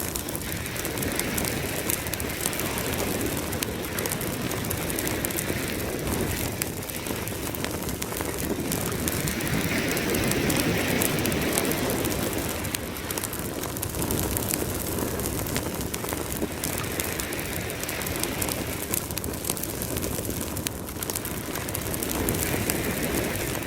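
Campfire crackling with many small sharp pops, over the steady wash of ocean waves that swell and fade every several seconds.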